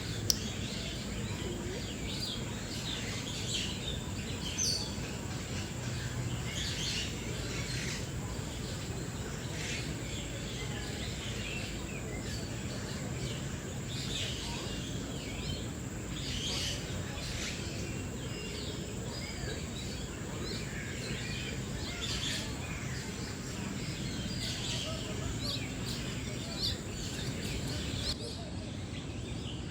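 Many birds chirping and calling, short scattered calls throughout over steady background noise, with a faint steady high tone. A single sharp click just after the start.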